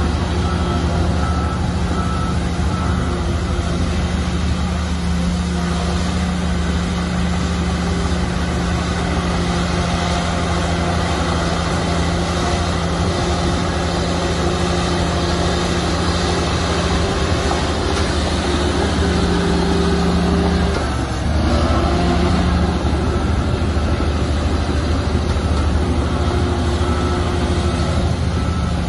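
Heavy diesel earthmoving machinery running steadily under load, with a brief drop and change in engine note about two-thirds of the way through. A reversing alarm beeps in regular pulses at the start and again near the end.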